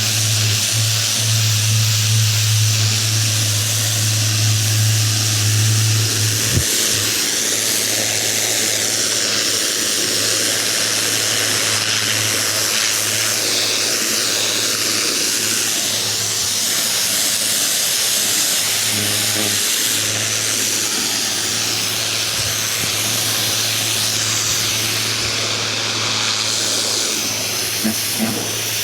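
Ryobi 2000 PSI electric pressure washer running, its motor humming steadily under the hiss of the water jet spraying against a fence. The hum is stronger for the first six or so seconds, then drops back while the spray hiss carries on.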